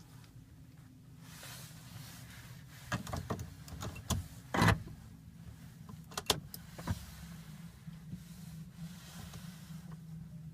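Car sounds: a steady low hum with a handful of short clunks and clicks in the middle, the loudest about four and a half seconds in.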